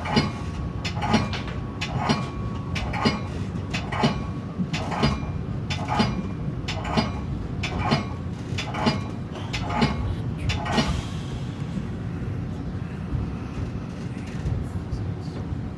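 Metra commuter train wheels clicking over rail joints: sharp paired clicks about once a second over a steady rumble. The clicks stop about eleven seconds in while the rumble goes on.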